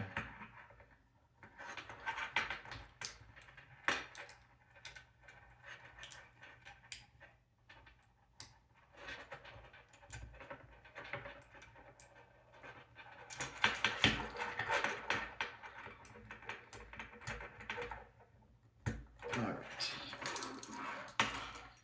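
Small plastic and metal robot-kit parts clicking and rattling as they are handled and twisted together, with scattered sharp clicks and a denser stretch of clattering about two-thirds of the way through.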